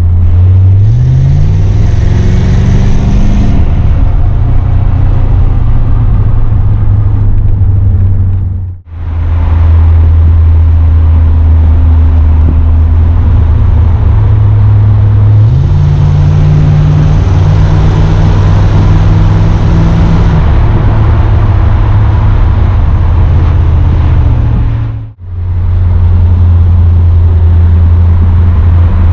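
Chevrolet Corvette C4's V8 engine heard from inside the cabin while driving: it revs up through the first few seconds, then settles into a steady run, stepping up in pitch about halfway through. The sound briefly cuts out twice.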